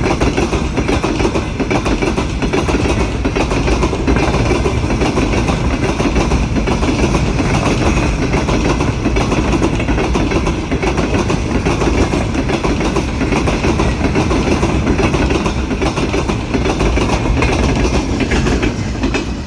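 Freight train wagons rolling steadily past, their wheels clacking over the rail joints with a continuous rumble.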